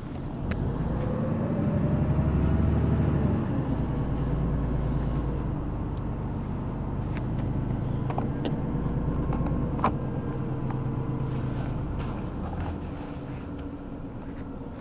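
City bus engine heard from inside the cabin, its note rising and getting louder about one to three seconds in as the bus accelerates, then easing to a steady run. Occasional sharp rattles and clicks from the bus body.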